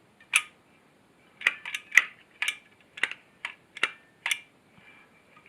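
A run of light, irregular metallic clicks and taps from the carburetor's small parts being handled on the bench: about nine or ten sharp clicks, a few closer together around the middle.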